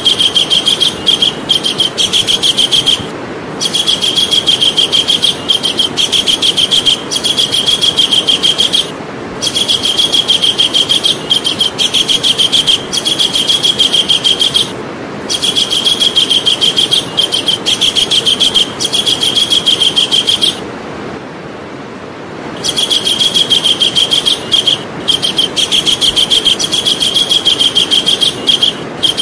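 Javan kingfisher calling: a rapid trill of many quick, high repeated notes, given in bouts of two to three seconds with short breaks and one longer pause about two-thirds of the way through, over a steady background hiss.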